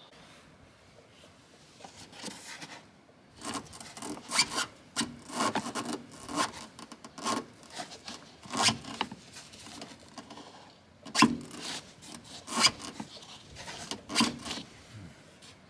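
Irregular rough scraping and rubbing strokes, about one or two a second, beginning about two seconds in, with the sharpest stroke near the middle.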